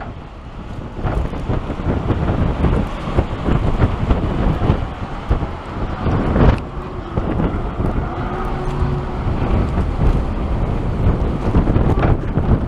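Strong gusty wind from a snowstorm buffeting the microphone: a heavy, uneven rumble with a sharper hit about halfway through.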